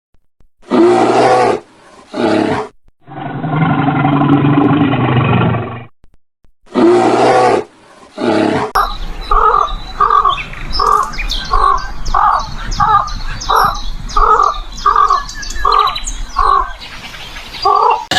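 A series of animal calls: several loud roaring calls and one long held call, then a different call repeated steadily nearly twice a second with bird chirps above it.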